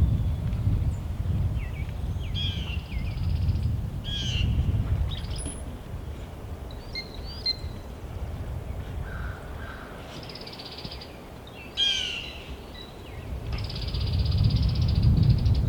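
Bird calls in short runs, several of them coming in clusters, over a steady low wind rumble on the microphone.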